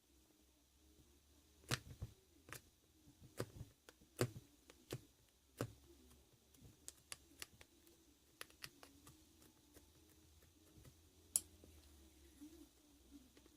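Slime being pressed and stretched by hand, making a series of irregular sharp clicking pops. The clicks are stronger and more spaced in the first half and fainter and more frequent later, with one loud click near the end.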